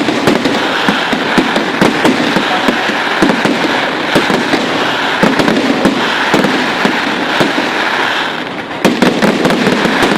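Fireworks display: a loud, dense stream of rapid bangs and crackling. It eases briefly about eight and a half seconds in, then the bangs pick up again.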